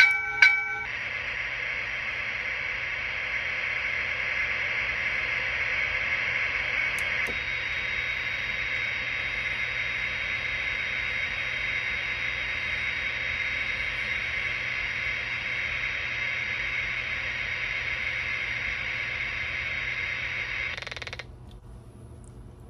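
MTH Protosounds board's speaker powered at 18 volts with the reset chip installed: a brief tone, then a steady loud hiss for about twenty seconds that cuts off suddenly.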